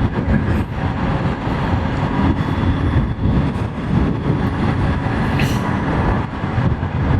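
Steady rush of wind and riding noise on a motorcycle rider's microphone at highway speed, loud and dense in the low end.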